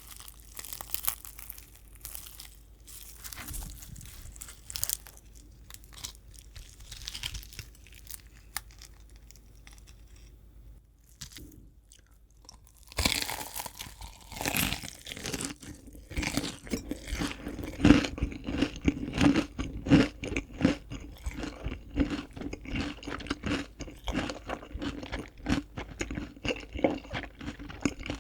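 Close-miked biting and chewing of crispy fried chicken, the crunchy coating crackling with each bite. The crunches are lighter for the first ten seconds, pause briefly, then come louder and denser from about halfway through.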